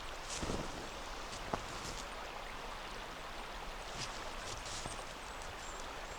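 River water running steadily, with a few scattered footsteps crunching on compacted snow and one sharper click about a second and a half in.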